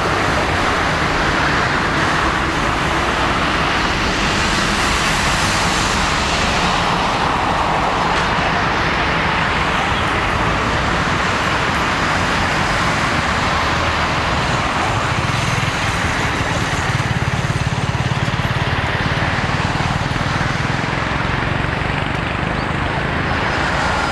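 Jet airliner engines at the airport running in a steady, continuous noise, swelling briefly a few seconds in.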